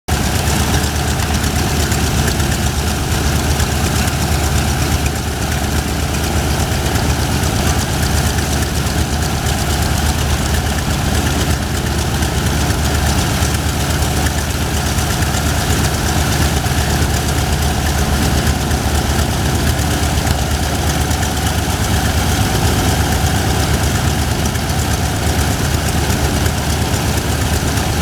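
Mitsubishi A6M5 Zero (Type 52) fighter's Sakae 21 fourteen-cylinder twin-row radial engine idling steadily with the propeller turning.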